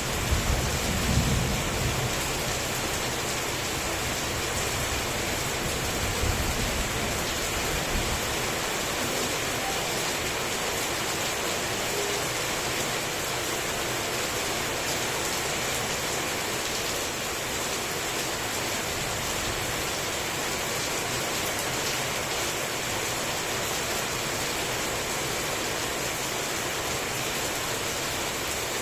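Heavy tropical rain falling steadily with an even hiss, with low rumbles of thunder in the first couple of seconds and again around six seconds in.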